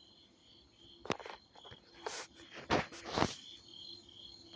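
Crickets chirping in an even pulsing rhythm over a faint steady low hum. Four short noisy scuffs break in, the loudest about three seconds in.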